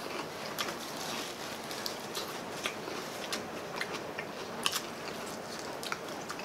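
Close-up eating sounds: chewing and biting into crispy fried chicken drumsticks and crispy pata, with scattered short crunchy clicks and crackles.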